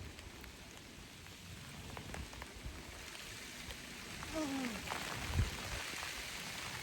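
Heavy rain falling steadily, the hiss growing louder over the second half as the downpour sets in, with scattered drops striking close by. A brief falling squeak and a dull thump come about halfway through.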